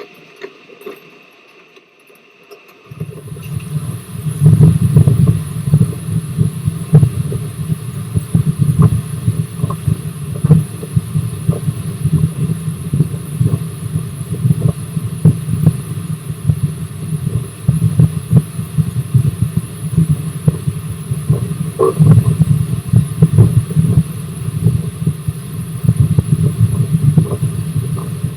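Rx207 steam train running, heard close up: a loud, steady low rumble with rapid irregular knocks, starting abruptly about three seconds in after a quieter stretch.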